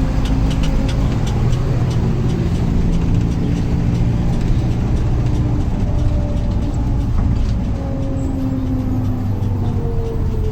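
Mercedes-Benz OM924LA four-cylinder turbo-diesel engine of an LO 916 bus running steadily, its pitch easing slowly down over the last few seconds.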